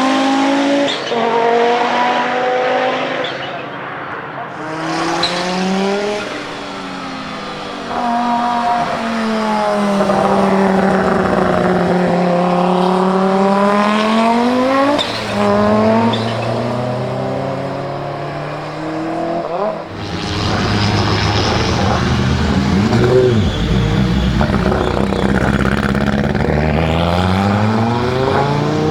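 Turbocharged five-cylinder racing engine of an Audi 90 IMSA GTO accelerating hard through the gears, its pitch climbing and falling back at each shift, over several runs. From about twenty seconds in the sound turns deeper and fuller.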